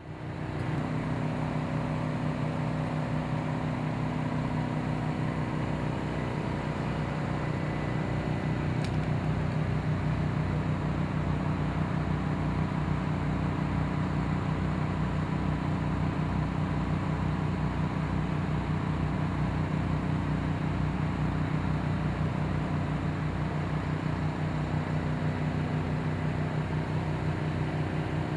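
A vehicle engine running steadily, a low even hum with a fine regular pulse. A brief click sounds about nine seconds in.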